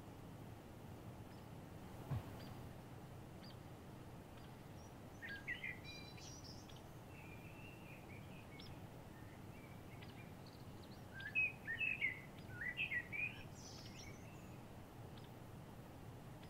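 Songbirds chirping in two short bursts of quick notes, about five seconds in and again from about eleven to thirteen seconds, over a steady low background hiss. A single low thump about two seconds in.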